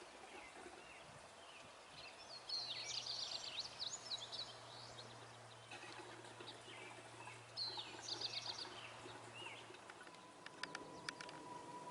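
Wild songbirds singing in quick, high, trilled phrases, in two spells, over faint outdoor background noise. A faint steady low hum runs through the middle, and a few light clicks come near the end.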